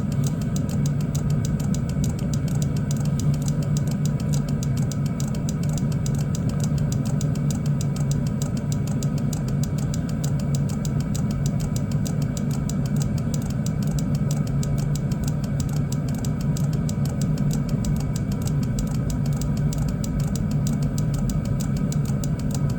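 Chinese diesel heater running steadily on low: the combustion-air fan and burner give a constant hum that does not change, while the heater settles its fuel mix.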